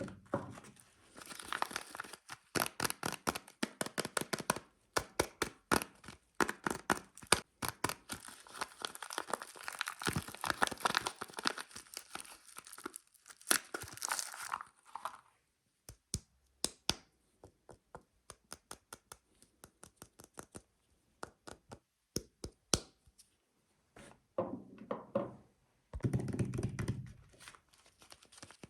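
Paper or plastic soap wrapper being torn and crinkled open by hand, a dense run of crackling for about fifteen seconds. After that come scattered single light taps and clicks, and near the end a short, duller rustle.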